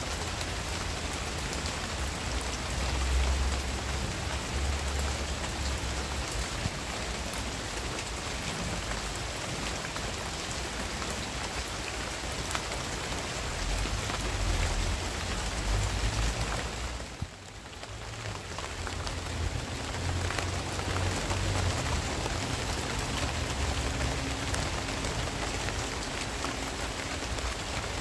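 Steady rain falling on garden foliage, with a low rumble that comes and goes. The sound dips briefly about two-thirds of the way through.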